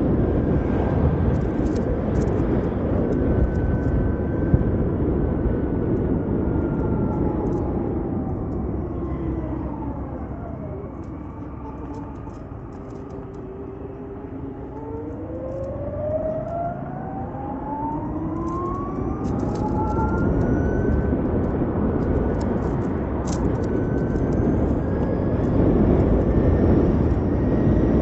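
Ather 450X electric scooter riding along, with wind rushing over the microphone. The motor's whine slides down in pitch as the scooter slows, about ten seconds in, then climbs again as it speeds back up, and the wind grows louder with speed.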